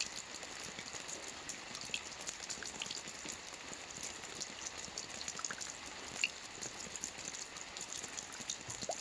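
Soft rain falling on a roof: a steady hiss with many small, scattered drop ticks.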